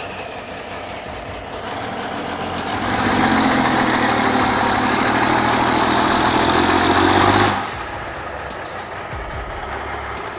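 Logging truck's diesel engine running, swelling into a louder, harder stretch about three seconds in that cuts off suddenly near eight seconds.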